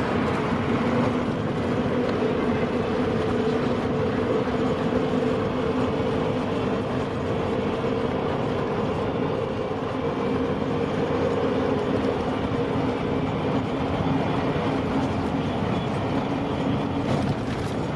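Steady drone of a lorry's engine and road noise heard from inside the cab while driving, an even rumble with a constant low hum.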